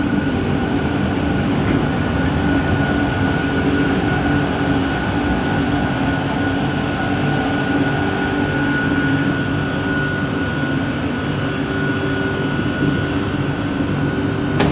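Bombardier Innovia ART 200 metro train running at speed, heard from inside the car. There is a steady rumble of running noise, and the linear induction motors give a whine of several held tones that do not change in pitch.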